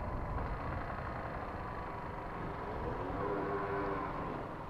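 Motorcycle riding: a steady low rumble of engine and wind. About halfway through, a faint engine note rises slightly and holds for a second or two.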